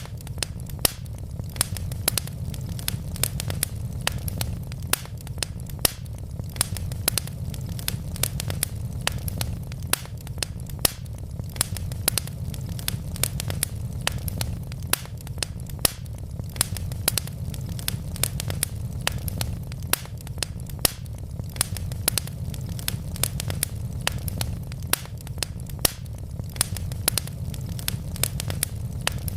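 Wood fire burning in a fireplace: a steady low rumble of flames with constant irregular crackling and occasional louder pops from the burning logs.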